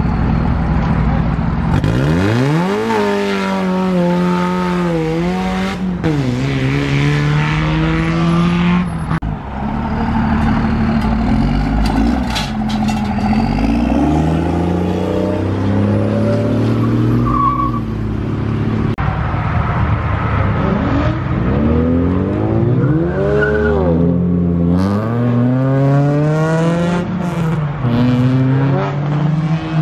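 Several cars and a lifted pickup truck pulling away one after another, engines revving hard and accelerating. Repeated rising engine pitches drop back at each gear change: one sharp run-up about two seconds in, and several more in the last ten seconds.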